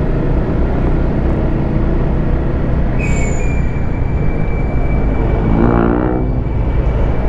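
Motorcycle riding in heavy traffic: wind rushing over the microphone and the engine running make a steady loud roar. A thin high steady whine joins about three seconds in and lasts about four seconds, and a short pitched tone sounds near the end.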